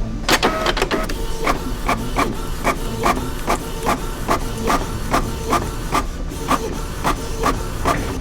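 Office printer running, with a quick burst of clicks at the start and then a steady, rhythmic mechanical clacking about four times a second.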